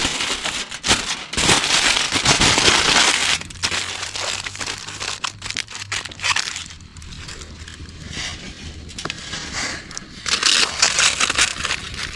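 Bursts of crinkling and crackling noise, full of sharp clicks: loud for the first three seconds, scattered after that, and loud again near the end.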